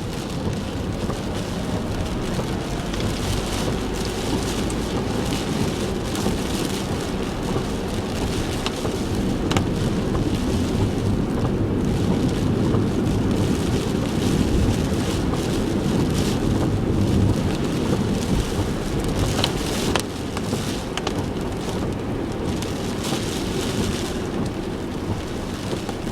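Heavy typhoon rain falling on a car, heard from inside: a dense steady rush of rain, with a low rumble of the car on the wet road underneath and many scattered sharp raindrop ticks.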